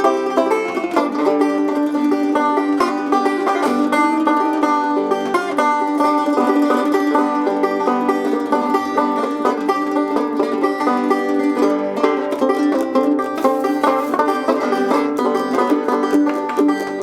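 Banjo-led bluegrass-style music with quick plucked notes at a steady pace.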